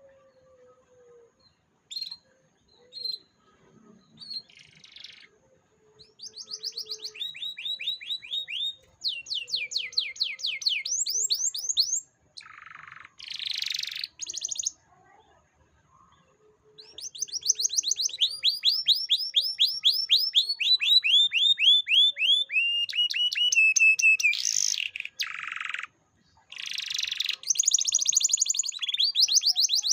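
Canary singing: phrases of fast, repeated down-sweeping notes that switch to a new phrase every second or two, broken by short harsh buzzy bursts, with a brief lull about halfway through.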